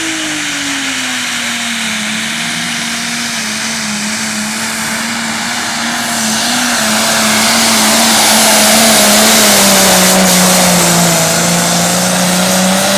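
Super Stock pulling tractor's turbocharged diesel engine running at full throttle under the load of the pulling sled, holding a steady pitch. It gets louder about halfway through, and its pitch sags near the end as the engine is dragged down by the load.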